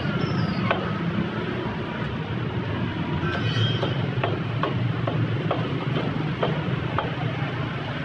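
Steady low rumble of street traffic, with scattered short clicks and knocks over it.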